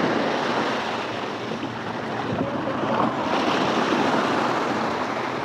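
Steady rushing noise of sea surf, with some wind.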